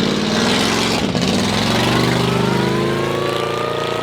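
Burnout truck's engine revving hard during a burnout. Its pitch climbs, dips briefly about a second in, then climbs again, with a thin rising whine and a hiss of spinning tyres over it.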